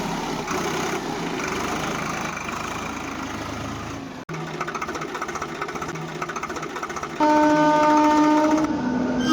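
Small DC motor of a homemade toy tractor whirring and rattling. It cuts off abruptly about four seconds in and starts again with a fast even ticking. Near the end a steady horn-like tone sounds for about a second and a half.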